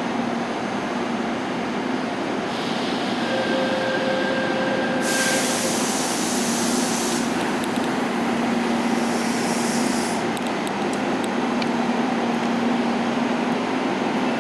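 Korail Class 341000 VVVF-GTO electric subway train running with a steady hum. A loud hiss comes in about five seconds in and again near ten seconds, followed by a run of light clicks.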